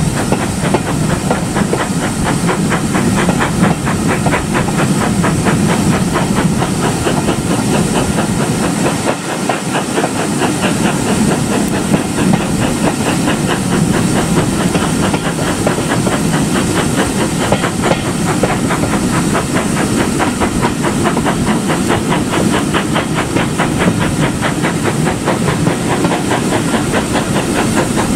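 Steam locomotive running: a steady hiss of steam with a rapid, even beat.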